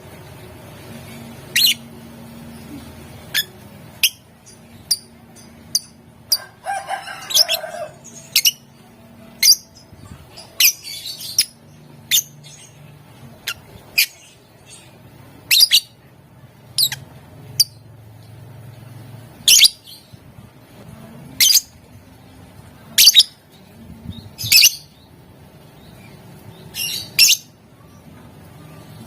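Lovebird calling in sharp, shrill single chirps, spaced about a second or two apart, with a short burst of scratchy chatter about seven seconds in.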